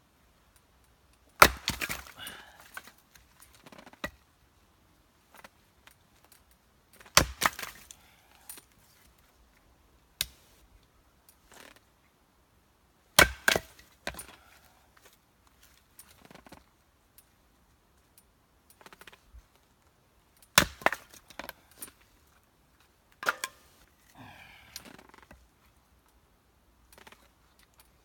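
Firewood being split: five sharp wooden strikes, roughly every six seconds, each followed by the crackle of wood splintering apart.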